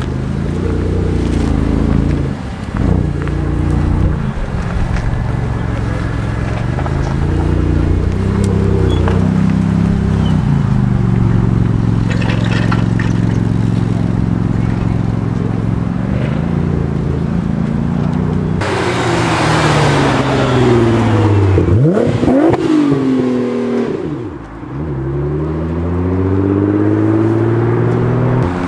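Car engines running and revving, their pitch rising and falling with the throttle. About two-thirds through comes a louder rev with a rush of exhaust noise; the pitch then drops away sharply twice and climbs again as a car accelerates.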